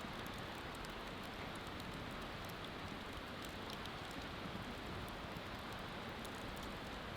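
Wood bonfire crackling, with scattered small snaps over a steady rushing hiss.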